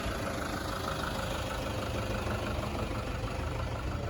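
Vehicle engine idling steadily, with a low rumble.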